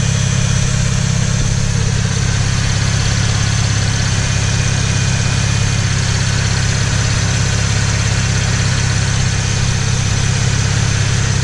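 2014 Chevrolet Camaro 2LT RS's 3.6-litre V6 idling steadily, just started after a fresh oil change.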